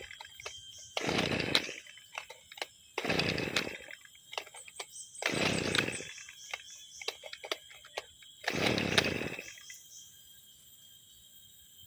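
A two-stroke brushcutter engine being pull-started again and again, four short bursts about two seconds apart without it keeping running. It is hard to start after six months unused.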